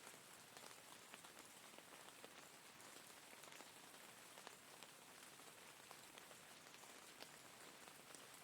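Faint steady rain: an even hiss with individual raindrops ticking at irregular moments.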